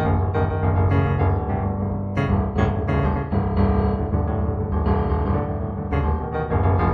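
Solo piano music, improvised, with notes and chords struck a few times a second over a held bass.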